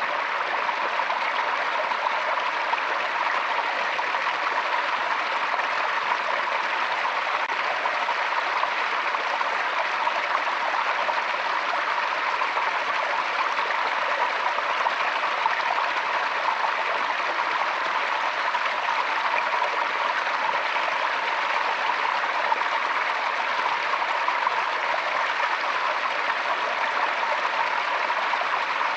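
Forest stream, water flowing steadily with an even, unbroken rush.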